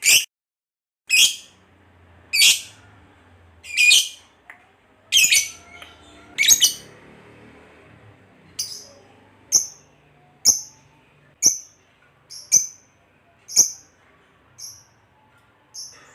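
A lovebird giving short, shrill single calls, about one a second. The first six are louder and harsher; after them come shorter, higher-pitched chirps.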